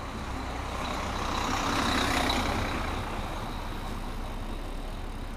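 A motor vehicle passing, its noise swelling to a peak about two seconds in and then fading, over a steady low rumble.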